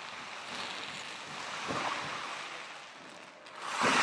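Fireworks hissing and crackling as fountain and comet effects burn. There is a dull thump about two seconds in, and another near the end that sets off a much louder rush of hissing.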